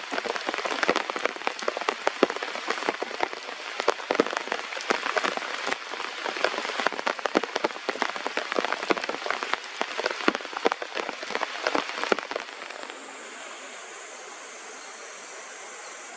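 Rain pattering densely on a surface, many separate drops ticking sharply, which cuts off abruptly about twelve seconds in. A steady, quieter high hiss follows.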